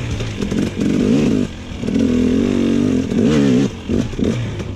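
Dirt bike engine revving up and down in bursts, dropping away about a second and a half in and falling off again near the end.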